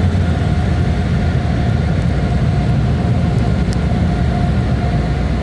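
Automatic car wash air dryers blowing, heard from inside the car's cabin: a loud, steady rush of air over a deep rumble with a faint steady whine, driving the water droplets off the glass.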